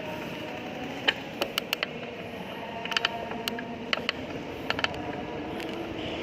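Bicycle riding on a road: a steady rush of road and traffic noise with a dozen or so sharp, irregular clicks and rattles from the bike.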